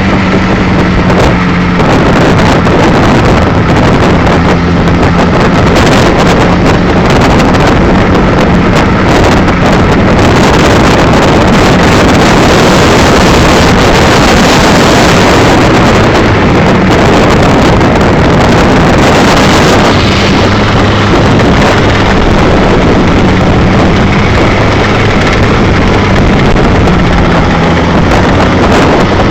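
Strong wind buffeting the microphone in a loud, steady rush, with a low wavering hum underneath.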